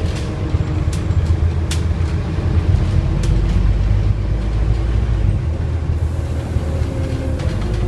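Scania N230UD double-decker bus's engine and six-speed ZF automatic driveline running under way: a steady low rumble with a faint whine that drifts in pitch, and a few light rattles and clicks. The low rumble eases about five seconds in and picks up again near the end.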